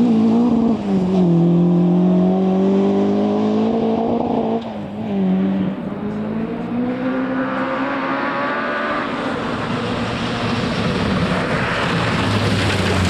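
Rally car engine under hard throttle, its pitch rising and falling through gear changes. About four and a half seconds in, it briefly lifts off, then pulls hard again with a growing rush of noise near the end.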